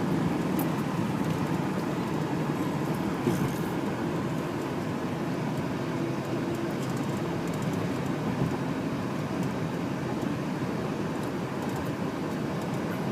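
Road noise and engine hum heard inside a moving manual-transmission car, steady throughout.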